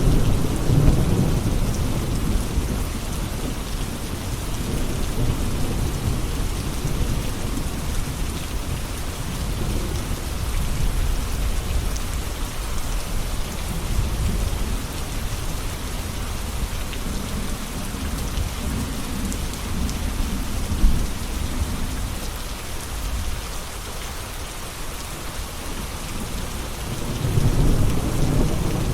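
Steady rain falling, with low rumbling swells of thunder near the start and again near the end.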